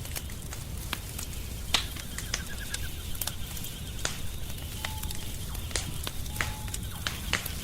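Wood fire crackling: sharp, irregular pops over a low rumble from the burning fire. The loudest pop comes a little under two seconds in. A faint steady high tone sits underneath, with two brief tones near the middle.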